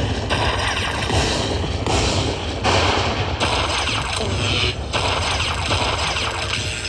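Casino slot machine's game audio: a dense, rapid clatter of electronic effects over music, changing in sections about every second.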